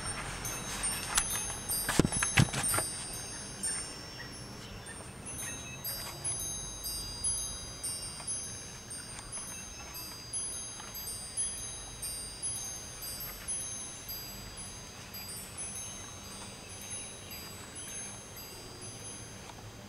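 Chimes ringing in a slow, irregular sequence of high, overlapping tones that fade away. There are a few sharp knocks in the first three seconds.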